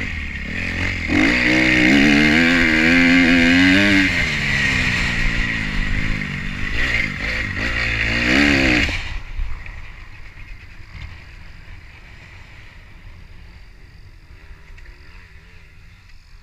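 2012 Kawasaki KX250F single-cylinder four-stroke engine running with an uneven, wavering note, then cutting off suddenly about nine seconds in as the binding crank seizes and the engine dies.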